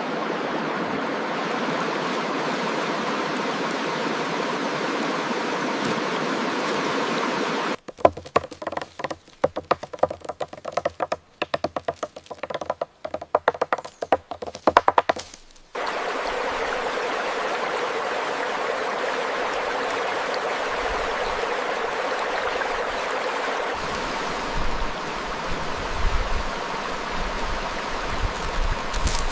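Steady rushing of running water. About eight seconds in it gives way to a quick, irregular run of sharp clicks and taps lasting about eight seconds, then the rushing water resumes. A few low thumps follow near the end.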